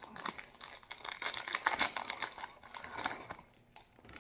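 Yu-Gi-Oh trading cards being handled and flipped through by hand: quick irregular clicks and crinkly rustling of card stock and wrapper, dying down near the end.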